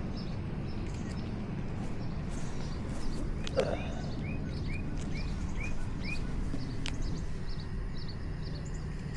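Birds chirping outdoors over a steady low rumble, with one bird giving a run of six quick, evenly spaced chirps in the middle. There are a couple of brief sharp clicks.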